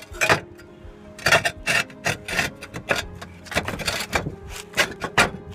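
Roof tiles scraping and knocking against each other in a run of short, irregular scrapes as a replacement tile is slid up into place among the others.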